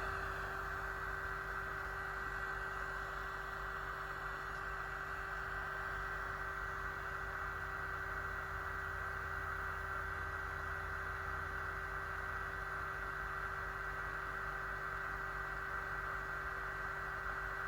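Small aroma fan of a Homedics EnviraSpa sound machine running steadily: a constant electric hum with a faint steady whine over a soft hiss of moving air.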